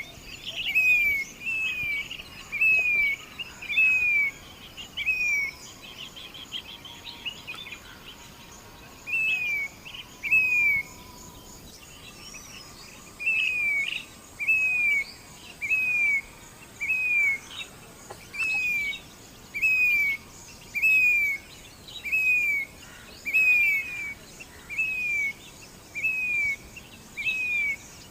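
Grey-bellied cuckoo calling: a long series of loud, clear whistled notes, each slurring downward, repeated a little faster than one a second, breaking off twice for a few seconds before resuming. Faint high chirps of other birds and an insect buzz lie behind it.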